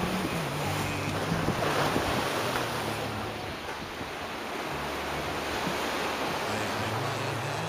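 Wind buffeting the microphone with a rushing, surf-like noise, over low sustained notes that shift in pitch a few times.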